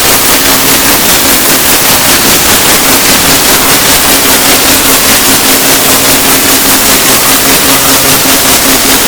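Heavy rain falling, a loud, even hiss that cuts in and out abruptly.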